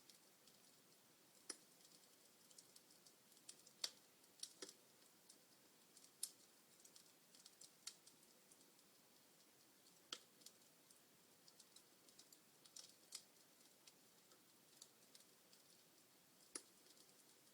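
Wood fire crackling: burning logs give off irregular sharp pops and snaps, roughly one a second with a few louder cracks among them, over a faint steady hiss.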